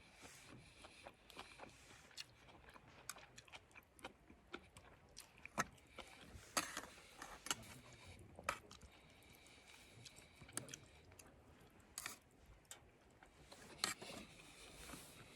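Scattered small clicks, taps and scrapes at irregular intervals, with a few louder knocks about six, twelve and fourteen seconds in.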